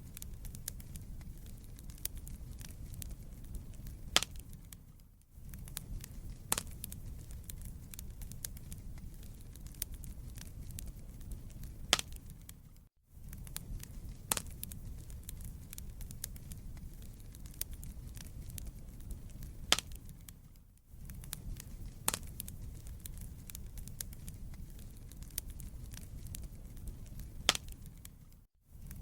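Wood fire burning in a fireplace: a steady low rumble with frequent sharp crackles and pops. The sound dips briefly to near silence four times, about every eight seconds.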